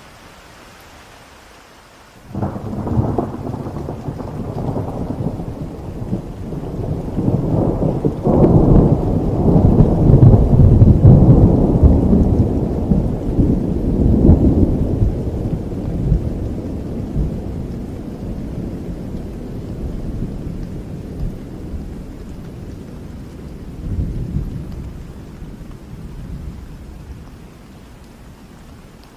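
Thunder during steady rain: a sudden crack about two seconds in opens a long, deep rolling rumble that builds to its loudest near the middle, then slowly fades, with a last smaller roll near the end before only the rain is left.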